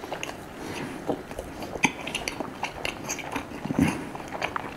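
Close-miked chewing of a crepe, with small wet mouth clicks coming at an irregular pace.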